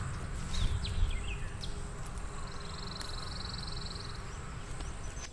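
Outdoor bird sounds: several short, high, falling chirps, then a rapid buzzy trill lasting about two seconds in the middle, over a steady low rumble.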